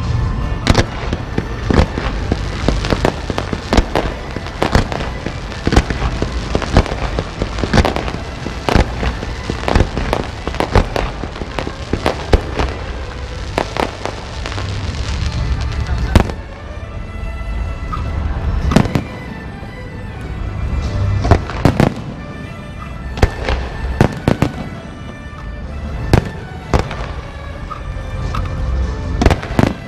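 Fireworks and firecrackers going off in rapid sharp bangs, densely packed for about the first half and then more spaced out, with music beneath.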